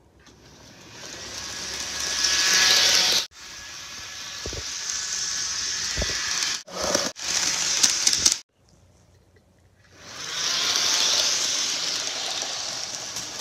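HO scale model train running on its track, a steady rushing hiss of wheels and motor that grows louder as it nears and cuts off abruptly several times.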